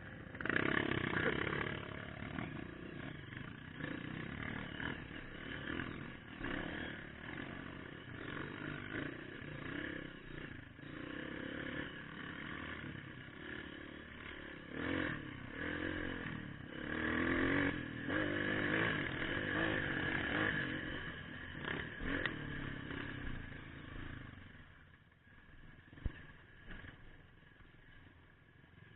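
Trail motorcycle engine running and revving up and down over and over while riding, going quieter for the last few seconds.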